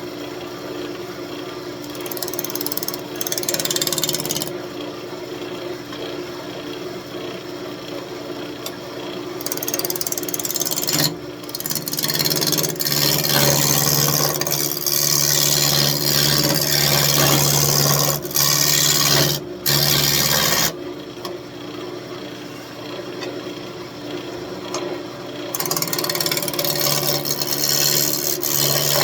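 Wood lathe spinning a square walnut blank while a turning tool takes the corners off, a rough, rasping cut that comes and goes in long stretches over the lathe's steady motor hum. The cut is taken slowly, since the stock is not yet round.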